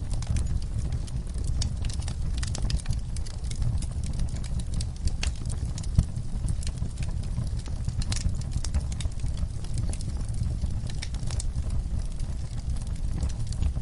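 Fireplace fire crackling, with irregular sharp pops over a steady low rumble of flames, and one louder pop about six seconds in.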